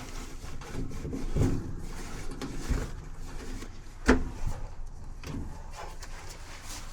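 Rubbing and scraping handling noises with a few dull knocks, the loudest a single sharp knock about four seconds in.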